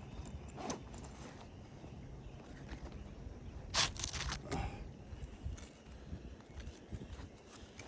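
A few scuffs and knocks, the loudest a short cluster about four seconds in, over a low rumble of wind on the microphone.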